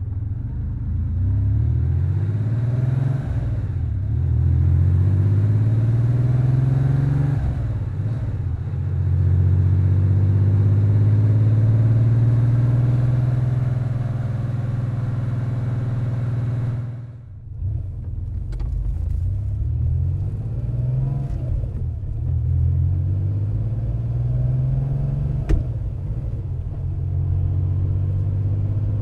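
Porsche 911 G-model's air-cooled flat-six running through a 92.501GT aluminized-steel sport muffler with dual centre outlets, pulling through the gears: the pitch climbs and drops back at each shift several times, holds steady for a few seconds mid-way, and briefly falls away about 17 seconds in before climbing again.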